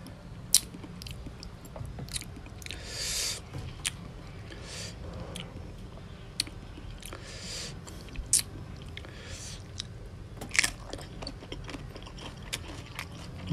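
Close-up sounds of a person eating raw salmon salad with fresh cabbage and okra: moist chewing and smacking with frequent sharp clicks and crunches, and a few short hissy bursts.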